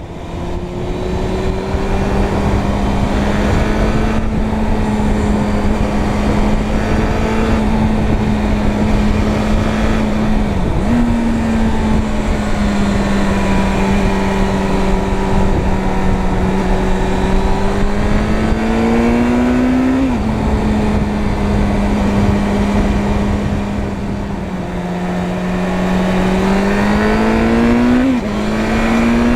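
Suzuki Bandit 600's inline-four engine running under way, its note climbing slowly and then dropping suddenly about three times as gears change. A steady rush of wind and road noise runs under it.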